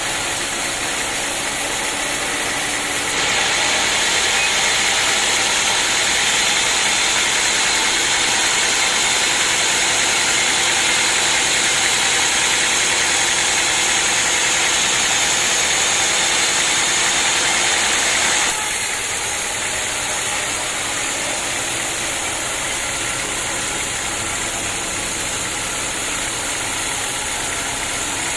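Sawmill machinery running steadily; from about three seconds in until about eighteen seconds in it gets louder and hissier as the saw cuts through a large acacia log, then drops back to the steady running.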